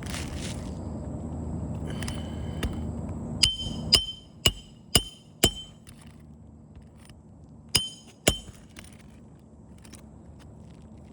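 Hammer blows driving roofing nails into a replacement asphalt shingle, each with a short metallic ring: five strikes about half a second apart, then two more a few seconds later.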